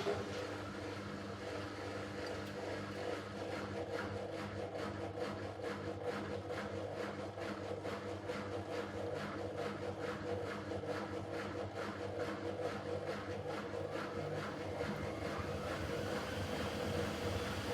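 Miele W5801 WPS front-loading washing machine running late in its easy-care 30 °C cycle: a steady motor hum with a regular pulsing swish from the turning drum, and a faint rising whine near the end.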